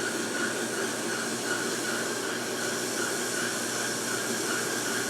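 Hot-air rework station blowing steadily while reflowing solder joints on a circuit board: an even fan-driven hiss with a faint wavering whistle.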